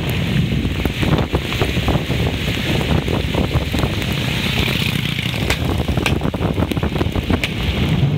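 Heavy rain falling, with wind buffeting the microphone as a steady low rumble and many sharp taps of drops striking close by.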